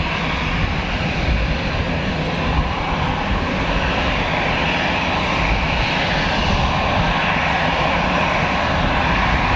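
Airbus A320-214 airliner's two CFM56 turbofan engines running steadily at low power before takeoff clearance, a continuous rush with a deep rumble underneath.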